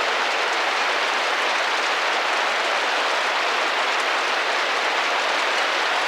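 Rain tapping gently against a window pane: a steady, even hiss of drops with no change in strength, and now and then a faint separate tick.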